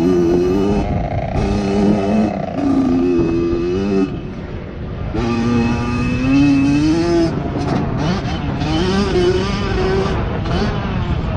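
Kawasaki KX100 two-stroke dirt bike engine revving up and down as it is ridden, over a low wind rumble. The revs drop off about four seconds in, then climb again a second later.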